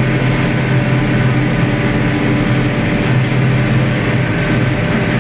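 John Deere 4450 tractor's six-cylinder turbo diesel running steadily under load while mowing hay, heard from inside the cab.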